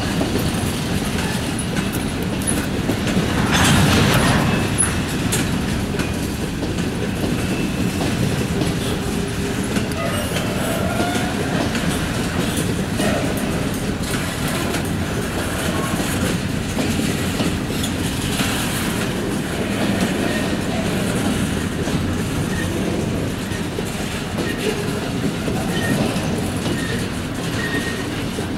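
Train of railroad cars being shunted by Norfolk Southern locomotives, rolling steadily with wheels clattering over the rail joints and a few faint wheel squeals. It swells louder about four seconds in.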